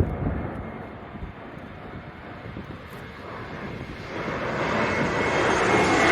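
Jet airliner on final approach, its engine roar growing steadily louder over the last couple of seconds as it comes in low, with a thin steady whine over the rumble.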